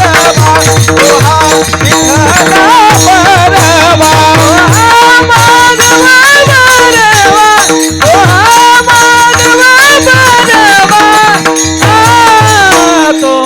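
Marathi devotional abhang music: a high, wavering sung melodic line held without clear words, over a steady drone note, with a pakhawaj drum and small hand cymbals keeping a brisk rhythm.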